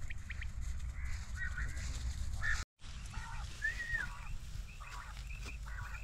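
Birds calling: scattered short calls, one with a rising-and-falling arch, then a run of quick high chirps, over a steady wind rumble on the microphone. The sound cuts out for a split second a little under three seconds in.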